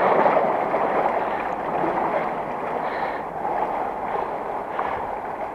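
Flowing water of the River Sheaf rushing steadily inside a brick underground culvert, easing off slightly toward the end.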